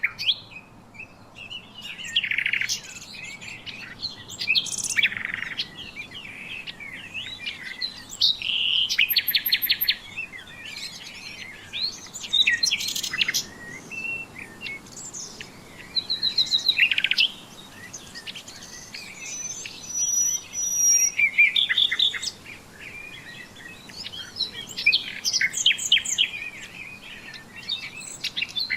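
Several songbirds singing and chirping at once: a busy chorus of whistled notes, quick trills and fast ticking phrases with short gaps between them.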